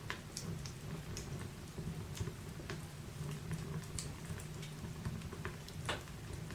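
Wood fire crackling in a fireplace: irregular snaps and pops, one sharper pop near the end, over a low steady rumble of the flames.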